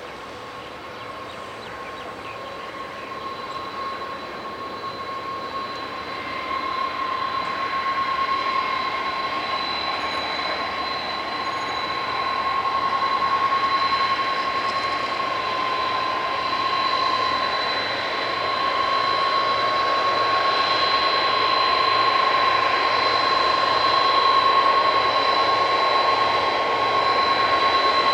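Aircraft engines running with a steady high whine over a broad rush, growing steadily louder.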